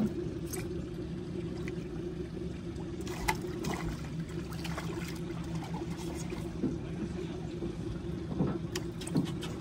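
Boat motor idling steadily with a low hum, with a few scattered knocks and taps on the boat.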